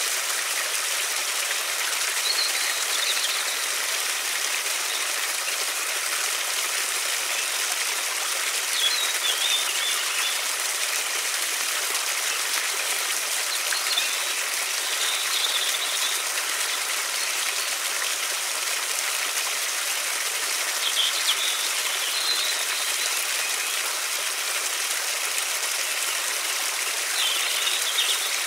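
River water rushing in a steady, even hiss, with a few brief bird chirps breaking through now and then.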